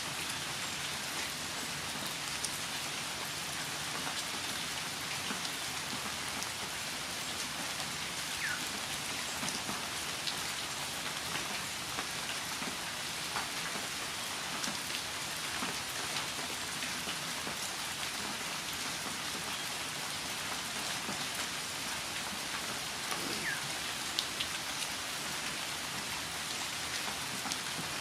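Steady rain falling and pattering on surfaces, with scattered louder individual drips.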